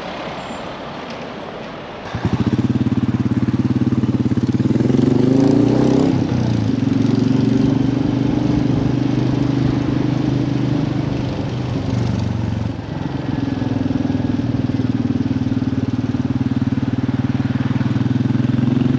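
Royal Enfield motorcycle engine. It comes in sharply about two seconds in and then runs steadily as the bike pulls away, with the note dropping twice at gear changes.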